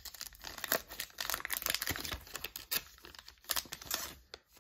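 Foil trading-card pack wrapper being torn open and crinkled by hand: a run of irregular crackles and rustles.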